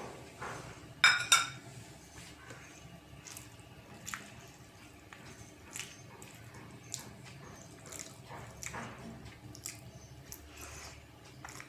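Close-up eating sounds: wet smacking and squishing of chewing a soft meal of rice and dal, in scattered short clicks. A louder sharp clatter about a second in.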